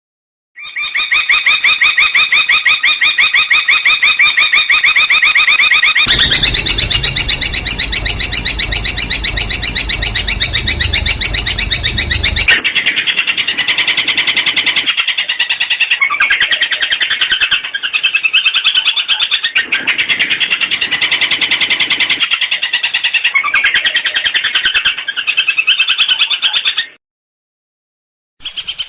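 Long-tailed shrike (cendet) singing loud, fast runs of rapidly repeated chattering notes, the mimicked 'isian' song used in shrike training recordings. The song comes in abruptly changing sections, one with a low rumble beneath it, and breaks off briefly near the end.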